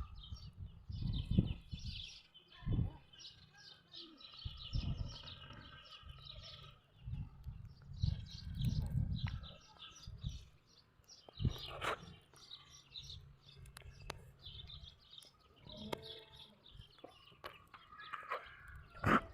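Small birds chirping and twittering continuously, over intermittent low rumbling and a couple of sharp knocks, one about twelve seconds in and one near the end.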